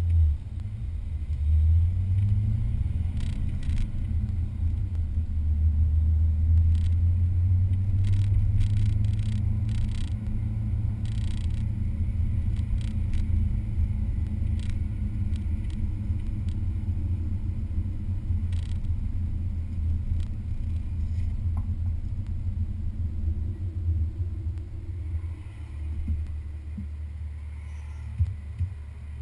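Vehicle running at speed on a track, heard as a low, steady rumble with scattered short clicks and knocks.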